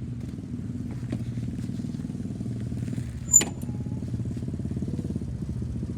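125 cc dirt bike engine running steadily at an even speed, with one sharp click a little over three seconds in.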